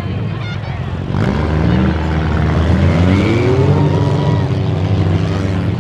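Demolition derby car engines running and revving, getting louder about a second in, with a rising rev around three seconds in.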